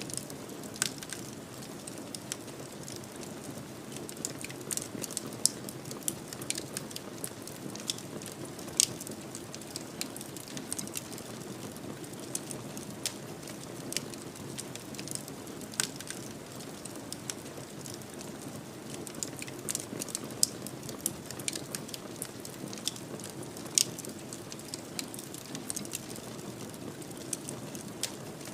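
Wood fire in a fireplace crackling: a steady low hiss of flames with frequent sharp, irregular pops and snaps.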